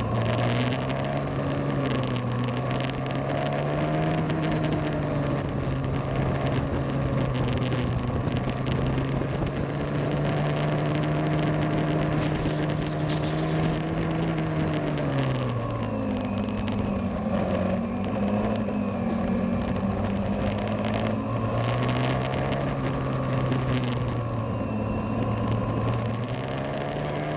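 Motorcycle engine running under way, with wind and road noise. The engine note rises a few seconds in, holds steady, then falls back about halfway through as the speed changes.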